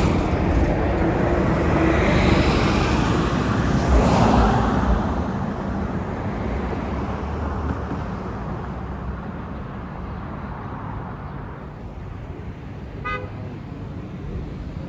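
Road traffic passing: a loud vehicle pass-by in the first five seconds that then fades away, and a short horn toot about thirteen seconds in.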